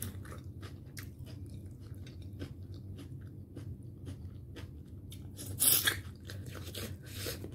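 Close-up mouth sounds of someone eating: chewing, with many small clicks and smacks, as leftover bits of food are picked off the plate with the fingers and eaten. There is one louder burst of crunching about five and a half seconds in.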